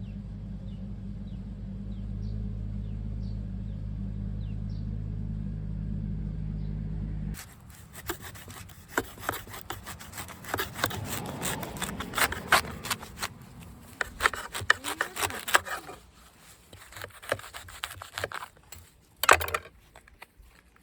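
A steady low rumble for about seven seconds stops abruptly. It gives way to a knife working through fresh bamboo shoots: irregular scraping and sawing strokes with sharp knocks against a cutting board, as the shoots are cut for preparation.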